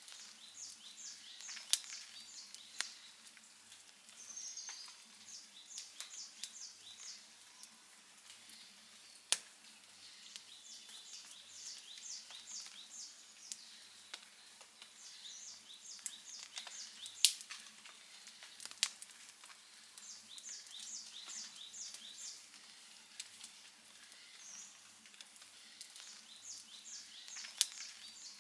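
Wood campfire crackling, with scattered sharp pops and a few louder snaps, the loudest about two-thirds of the way through. A bird sings a short phrase of quick high notes, repeated every few seconds.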